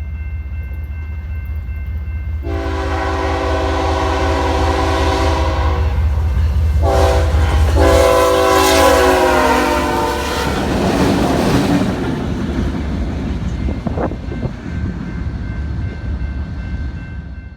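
Train locomotive sounding its multi-chime air horn in two long blasts, the first about two and a half seconds in and the second about seven seconds in, over a steady low engine rumble. As the horn stops, the train passes with a loud rush of wheel noise on the rails.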